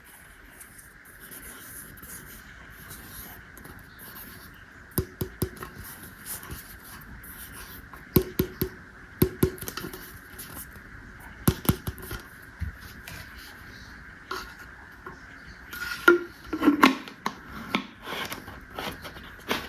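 Plastic toy pieces being handled: scattered clicks and taps, in small groups, with a denser run of knocks near the end, over a faint steady hum.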